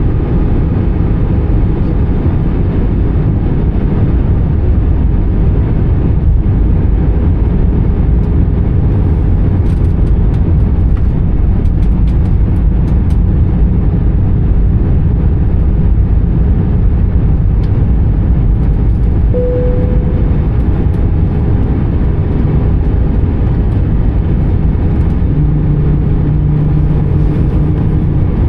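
Steady cabin noise of an Airbus A320 in flight: the low rumble of its CFM56 engines and the rush of air past the fuselage. A short tone sounds about two-thirds of the way through, and a low hum comes in for a couple of seconds near the end.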